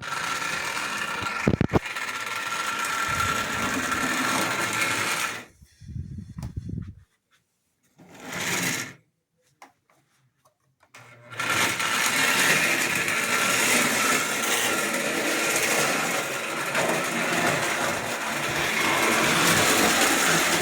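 Pre-war Ives toy electric locomotive running on track, its motor whirring and gears and wheels clattering. The sound drops out for several seconds in the middle, with two short bursts, then resumes. The locomotive is very sensitive to the throttle: the least bit of power makes it take off.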